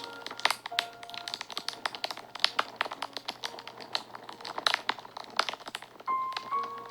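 Wood fire crackling, with frequent sharp pops and snaps at an irregular rhythm. Soft background music holds long steady notes underneath, one of them starting near the end.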